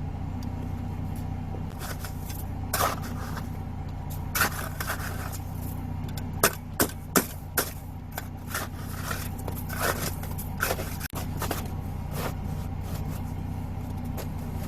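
Jeep Gladiator engine idling steadily, with irregular metallic clicks and scrapes over it, including a quick run of four sharp clicks about halfway through.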